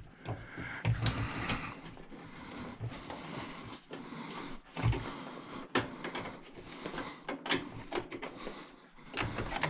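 Scattered clicks, scrapes and knocks of scrap metal parts being handled and worked apart with hand tools, spaced irregularly over a faint steady background.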